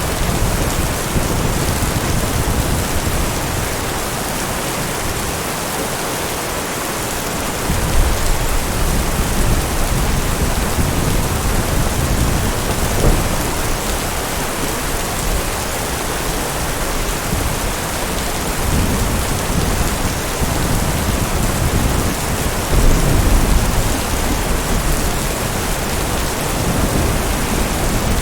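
Heavy rain falling steadily, with low thunder rumbling beneath it, swelling about eight seconds in and again later on.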